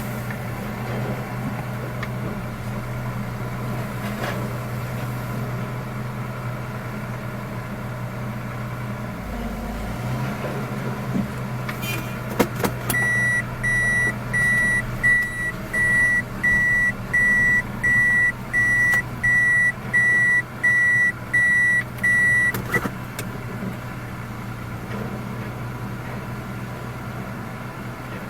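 Engine running with a steady low hum, and from about halfway in, a vehicle's reversing alarm beeping evenly, a little faster than once a second, for about ten seconds before it stops.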